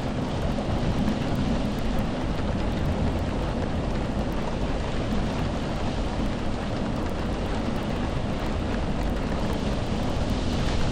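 Steady rain falling, an even hiss with a constant deep rumble beneath it.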